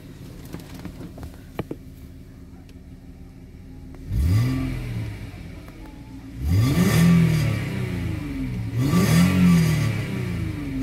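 A 1998 Audi A6 C5's 2.4-litre V6, at full operating temperature, idling and then revved three times. A short blip comes about four seconds in, then two longer revs, each rising and falling back to idle.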